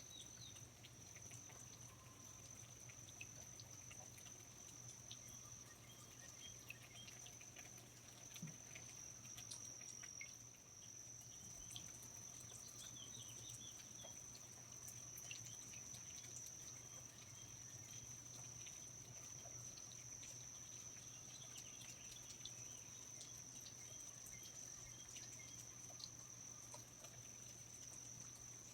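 Faint rainforest ambience: an insect trilling in one steady high pitch, with scattered small chirps and light drips.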